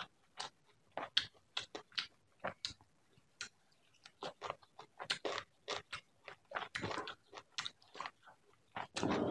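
Close-miked wet chewing, lip smacking and mouth clicks of a person eating curried giant prawns by hand. A louder, denser stretch of chewing starts near the end.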